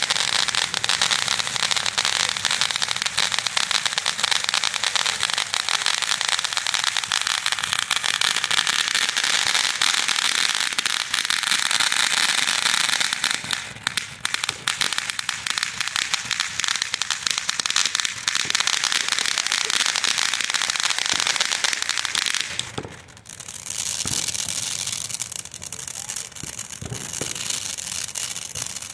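Ground-level consumer fireworks spraying sparks, with a dense, continuous crackle of many small pops. The crackle drops away about 22 seconds in, then picks up again more quietly.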